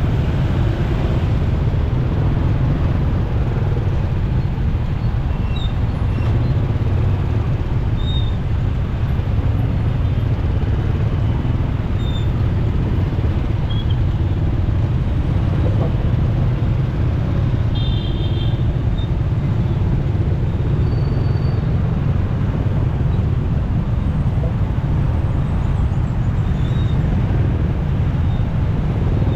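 Steady low rumble of wind and motorcycle road noise while riding through city traffic, with a brief high beep about two-thirds of the way through.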